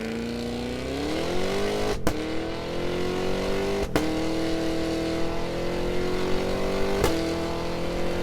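Supercharged 6.2-litre LT4 V8 of the 2023 Cadillac Escalade-V revving, its note climbing over the first two seconds, then holding a loud, slowly rising drone. Three brief sharp cracks cut through it, about two, four and seven seconds in.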